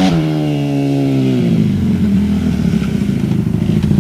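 Dirt bike engine revved, holding high and sagging a little, then dropping back about a second and a half in to a lower, rougher running.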